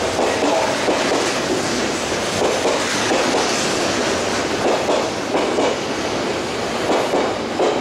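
Odakyu 60000-series MSE Romancecar electric train arriving alongside the platform, with steady running noise and wheels clacking over rail joints at irregular intervals.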